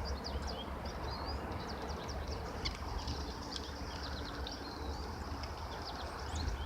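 Small songbirds giving many short, high chirps and calls, over a steady low rumble.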